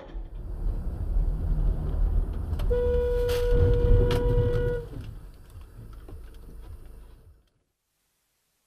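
A car horn sounds one steady note for about two seconds, over the low rumble of a moving car. The sound cuts off abruptly near the end.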